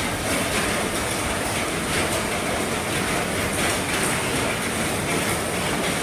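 Heavy rain falling on an RV roof: a steady, dense patter with scattered sharper drop hits.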